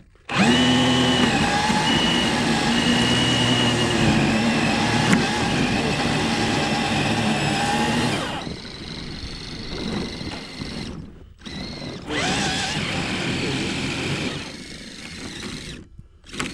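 Traxxas RC crawler's electric motor and gear drivetrain whining under throttle, loud and steady for the first eight seconds, then quieter and uneven, cutting out abruptly twice.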